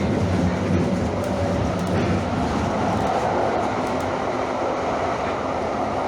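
Calgary CTrain light-rail train running, heard from inside the car: a steady rumble of wheels and motors with a faint hum.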